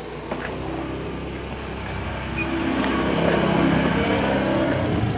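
Yamaha RX King's 135 cc two-stroke single-cylinder engine running, growing louder about halfway through.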